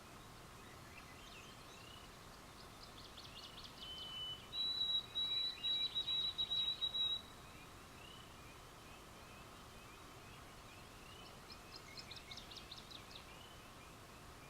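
Night-time wildlife calls over a low hiss: short rising peeps repeated over and over, two runs of quick falling chirped notes, and loudest, a high steady trill that pulses for a few seconds near the middle.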